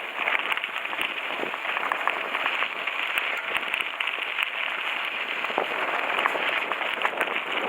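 Mountain bike tyres rolling fast over a loose gravel road on a coasting descent: a steady crunching hiss broken by many small ticks and pops of stones.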